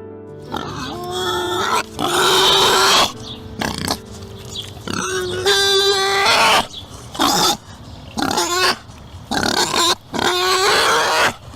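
An animal calling again and again: about eight loud calls with a clear pitch, each up to a second or two long, with short pauses between them.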